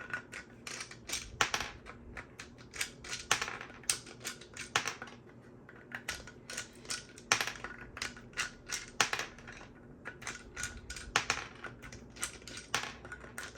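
3D-printed plastic screws being unscrewed from a printed plastic box and set down: a run of irregular light plastic clicks and clatters, a few a second.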